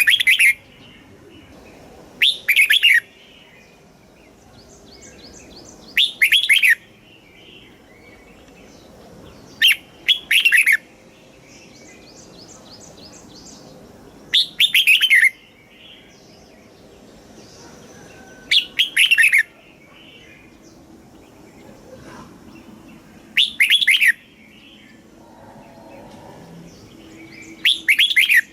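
Red-whiskered bulbul singing: a short, loud warbled phrase repeated about every four seconds, with fainter high chirps between the phrases.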